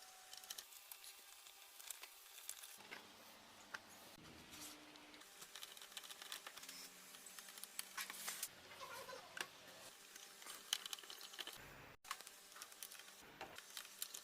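Faint, irregular clicks and taps of small parts being handled and fitted as a car graphic equalizer booster is put back together.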